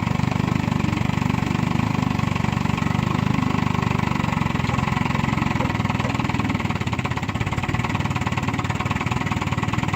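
1959 Johnson QD-20 10 hp two-cylinder two-stroke outboard motor idling steadily, throttled down to a smooth low idle.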